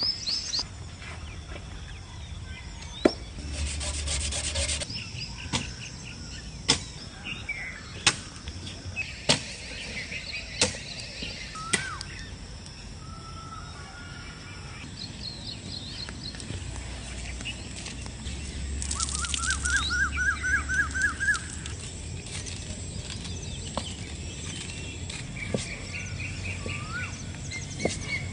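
A series of sharp knocks, about one every second or so between roughly 3 and 12 seconds in, among bird chirps and trills. There are two stretches of rustling noise.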